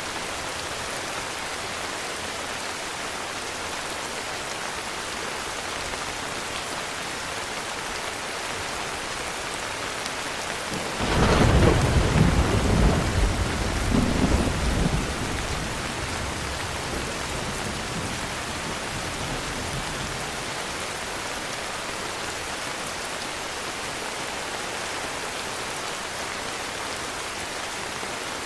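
Heavy rain falling steadily, with a clap of thunder breaking in suddenly about eleven seconds in and rumbling for about four seconds before fading back into the rain.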